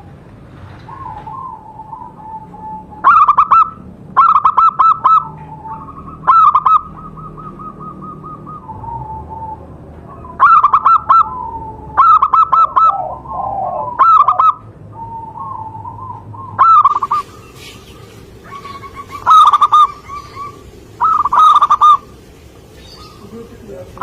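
Zebra dove (perkutut) cooing: about ten loud, short stuttering coo phrases, irregularly a second or two apart, with softer trilled cooing in between.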